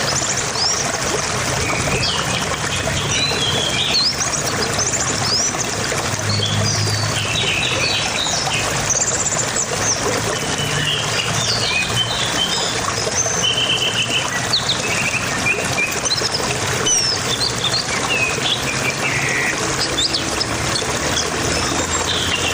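Small birds chirping and twittering again and again, over a steady rushing background noise.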